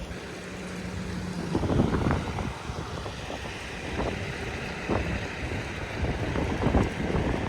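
Wind gusting across the microphone in irregular swells of rushing noise, over a low rumble.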